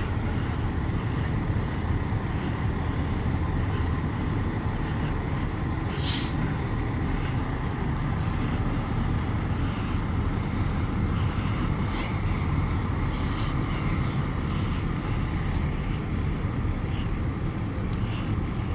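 Steady low rumble of idling heavy fire apparatus engines, with a brief air-brake hiss about six seconds in.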